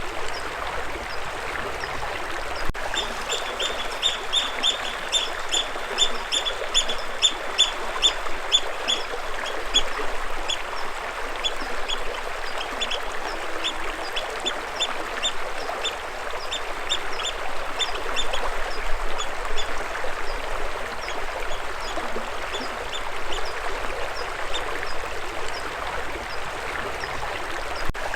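Steady running stream water, with a bird calling over it in a long series of short, high, repeated chirps that start a few seconds in, about two a second at first and more scattered later.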